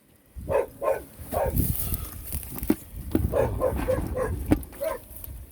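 A dog barking and yelping in a string of short, quick yaps.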